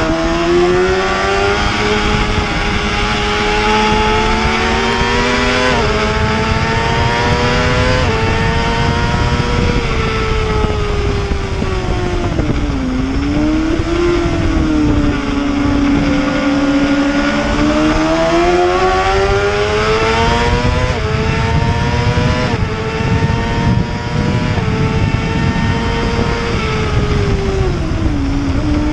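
Superbike racing motorcycle engine at high revs, its pitch climbing and then stepping down on each upshift, and dropping sharply on hard deceleration about a third of the way in and again near the end. Dense rushing wind noise runs under the engine.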